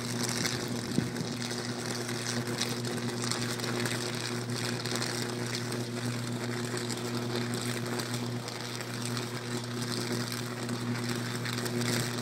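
Downed live power line arcing and burning on the street: a steady electrical hum over a hiss, with a few faint crackles.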